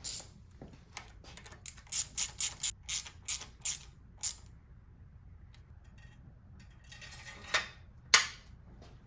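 Hand ratchet wrench clicking in short runs, tightening a bolt, most likely the dipstick tube bolt on a Subaru EJ engine, with a short rasp and a few sharper clicks near the end.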